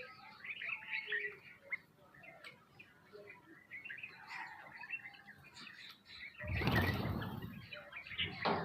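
Small birds chirping and twittering in short bursts, with a loud flurry of flapping wings a little after six seconds in and another brief flutter near the end.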